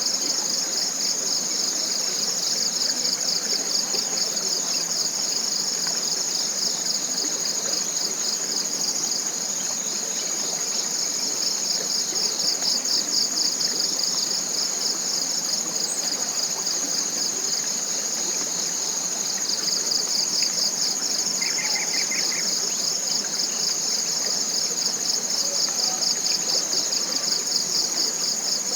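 Chorus of forest insects: one steady, high shrill over a rapidly pulsing trill, both unbroken throughout. A soft hiss of a small stream lies underneath, and a brief chirp sounds about two-thirds of the way through.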